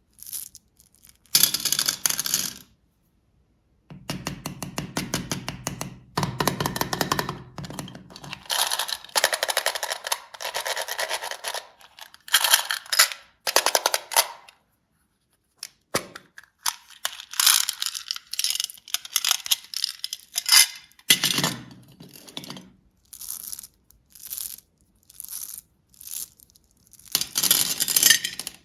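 Plastic candy wrappers being crinkled and torn open, in bursts of crackling with short pauses between.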